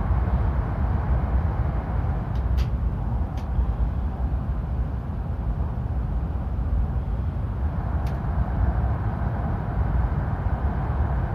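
Shinkansen train running at speed through the Seikan Tunnel: a steady low rumble. A few faint clicks come about two to three and a half seconds in and again around eight seconds.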